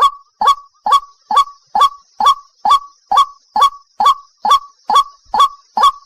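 White-breasted waterhen calling: short, sharp notes repeated about twice a second in a steady, unbroken series, each sweeping up to a peak.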